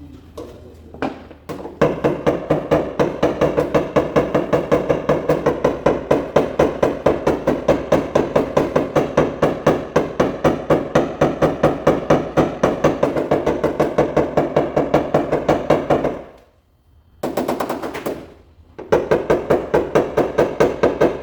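Rapid, even tapping on a car hood's sheet metal during paintless hail-dent repair: several ringing taps a second, breaking off briefly about three-quarters of the way through, then starting again.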